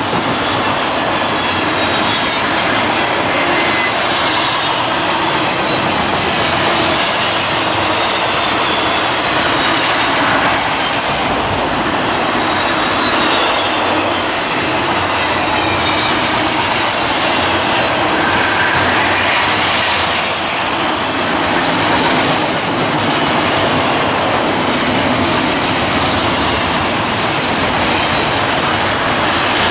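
Train cars rolling steadily past, the loud rumble of steel wheels on rail, with faint high wheel squeal now and then.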